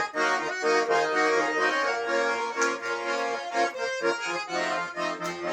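Garmon (Russian button accordion) playing an instrumental passage between sung verses: a melody over sustained chords.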